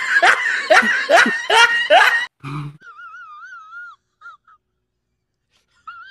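A person's wheezing laugh, a quick run of rising, gasping breaths that breaks off about two seconds in. Then a high wavering tone with a fast vibrato sounds twice, once in the middle and once near the end.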